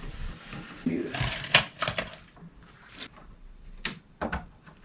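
Scattered light clicks and clinks of PEX pipe fittings and plumbing tools being handled, with a few sharp knocks about one and a half, three and four seconds in.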